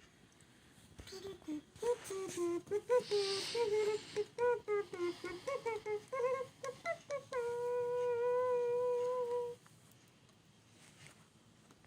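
A person humming a tune without words: a string of short, quick notes, then one long held note that stops suddenly.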